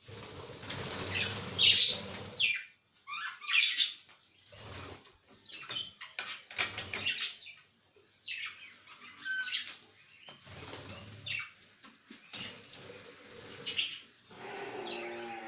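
Pet budgerigars chirping, with bursts of wing flapping and rustling, loudest in the first couple of seconds.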